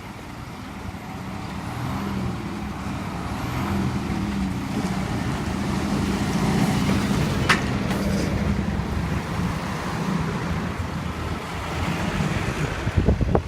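Scania Finesse coach's diesel engine running, growing louder over the first several seconds and then holding steady. There is a single sharp click about halfway through and a few low thumps near the end.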